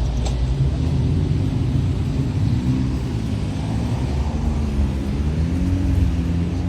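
Car engines and street traffic with a steady low rumble. In the second half, one engine's note wavers up and down in pitch.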